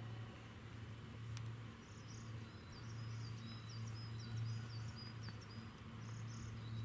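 A small songbird singing a quick series of short, high notes from about two seconds in until near the end, over a steady low hum.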